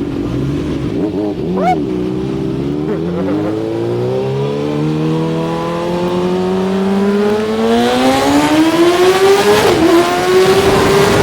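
Kawasaki ZX-6R's inline-four engine accelerating, its pitch climbing steadily through the second half, with a brief dip in pitch shortly before the end.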